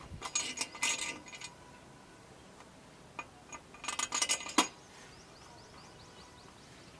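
Small metal parts and tools clinking and rattling against each other in two short bursts, about four seconds apart.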